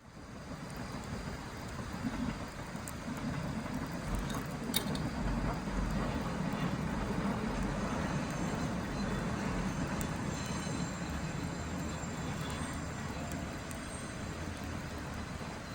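Wood fire burning in a fire pit: a steady low rush with a few sharp crackles and pops.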